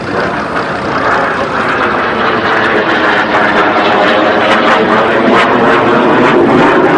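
Aircraft engine running loud, with a steady pitched drone in the noise and a rise in loudness over the first few seconds.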